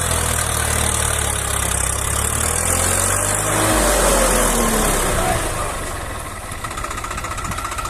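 Tractor engine running steadily; its low hum drops to a lower pitch a little over halfway through, then grows quieter near the end.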